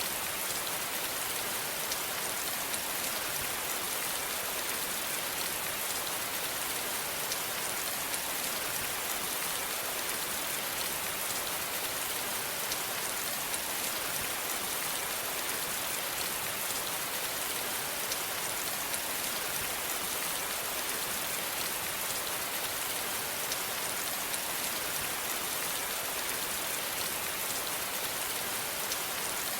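Steady rain falling on a surface: an even, unchanging hiss of many fine drops.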